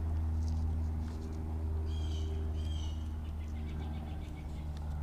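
A steady low hum runs throughout, with a bird calling twice in short, slurred notes about two seconds in and a brief run of faint ticks just after.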